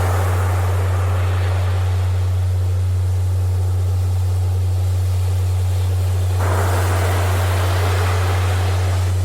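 A steady deep tone held at one pitch, played as a Rife 'healing' frequency, over recorded ocean surf. The waves wash in and ebb, with a fresh surge of surf about six seconds in.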